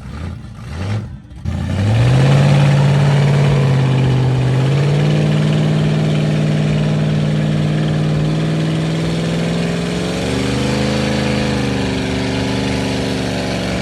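Mud-bog truck engine revved hard and held at high revs after a few short blips, its pitch climbing in steps about two seconds in, again around five seconds and again near ten seconds.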